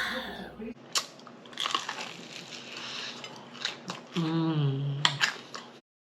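Close-miked biting and chewing of crispy fried food, with crackly crunches and mouth clicks. A brief hummed 'mmm' comes about four seconds in, and the sound cuts off abruptly near the end.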